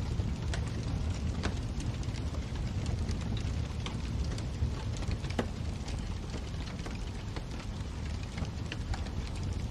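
Wood fire burning in a fireplace: a steady low rumble of flames with scattered small crackles and pops, and one sharper pop about five and a half seconds in.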